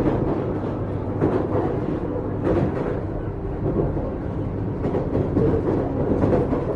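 Running sound inside a JR 455 series express-type electric multiple unit moving along the line: a steady rumble of wheels on rail with a low hum, broken by short knocks at uneven intervals as the wheels cross rail joints.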